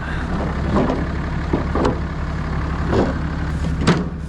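Plow truck's engine idling steadily, with a few short knocks as a loose plow wing extension is handled.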